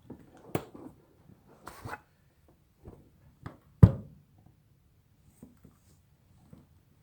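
Umbrella parts being handled: scattered small clicks and rattles of the ribs and spring mechanism being worked by hand, with one sharper knock about four seconds in.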